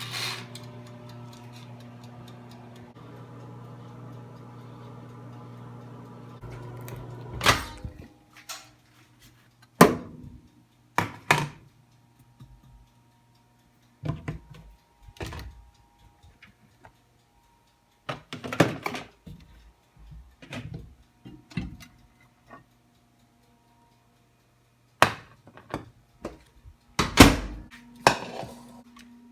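A microwave oven running with a steady electrical hum. The hum stops about seven seconds in and is followed by a series of scattered knocks and clatters, like a door and dishes being handled.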